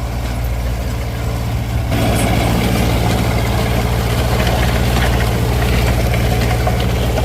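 Tractor engine running steadily, with a low, even hum; about two seconds in it gets louder and fuller.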